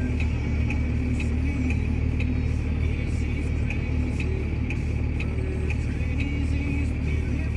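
Truck engine idling steadily, a constant low rumble heard from the cab, with a regular light tick about twice a second.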